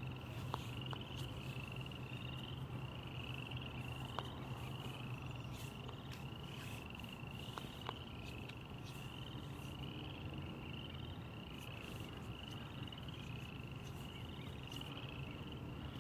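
Frogs calling: a steady run of short rising trills, repeated a little more than once a second, with scattered faint clicks.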